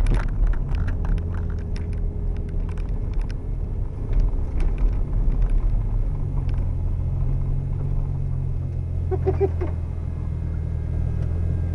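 Car engine running at low revs as the car rolls slowly, heard from inside the cabin: a steady low hum that grows stronger about six seconds in, with scattered clicks in the first few seconds.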